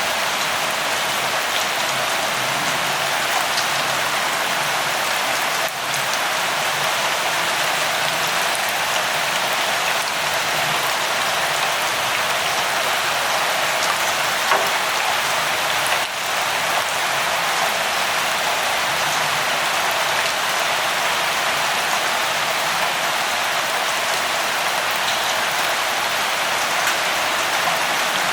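Steady light rain: a constant, even hiss of falling rain with scattered drop ticks.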